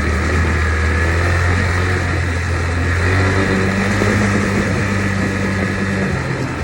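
Dirt bike engine running steadily while being ridden, its note shifting slightly higher about three seconds in and easing near the end.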